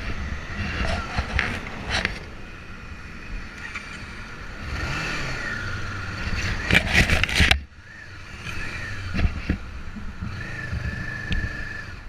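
Road traffic noise, with vehicle engines running and revving and a few sharp knocks. The sound cuts off abruptly about seven and a half seconds in and then goes on more quietly.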